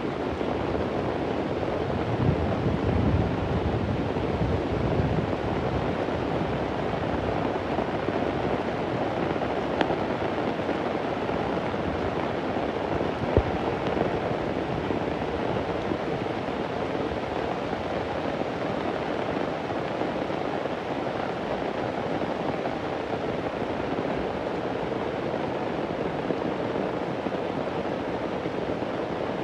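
Heavy rain falling steadily, with a low rumble of thunder a couple of seconds in that fades by about five seconds. Two brief sharp ticks stand out near the middle.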